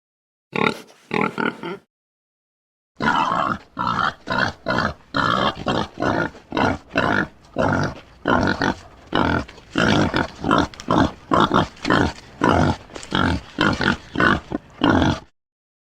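Animal-like creature vocal sound effects: a short run of grunts, a pause, then a long series of rapid, rhythmic pig-like grunts, about two a second, stopping shortly before the end.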